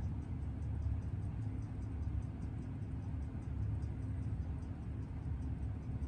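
Faint, regular ticking of a freshly serviced Seiko 6138 automatic chronograph movement running in on a timegrapher, over a steady low hum.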